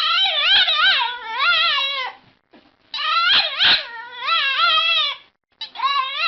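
A dog howling and whining in long calls whose pitch wavers up and down, three in a row, each about two seconds long.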